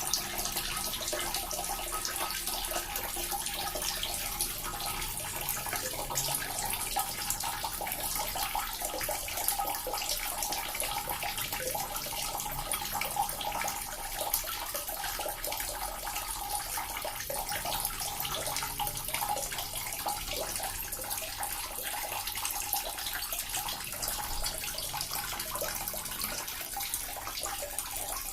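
Small water fountain running steadily: a continuous trickle and splash of falling water with fine dripping detail.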